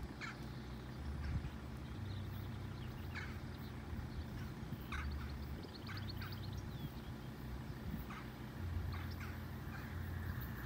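Small birds chirping now and then over a faint, uneven low rumble.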